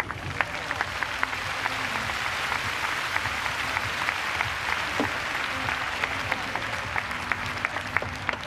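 Audience applauding steadily: a dense patter of many hands clapping, with individual claps standing out.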